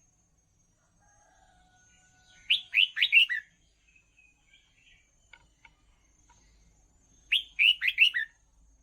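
Red-whiskered bulbul song: two short, loud phrases of about five quick down-slurred whistled notes, roughly five seconds apart, with faint scattered chirps between them.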